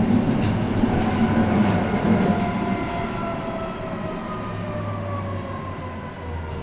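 Inside a Tatra T5C5K tram on the move: the wheels rumble and clatter on the rails, and a whine of several tones falls steadily in pitch as the tram slows, the rumble easing off about halfway through.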